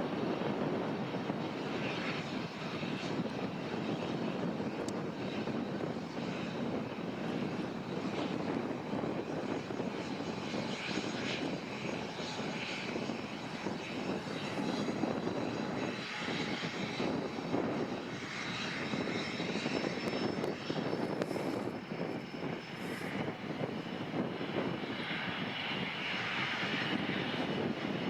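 Airliner engines running, heard as a steady rushing noise with no clear whine.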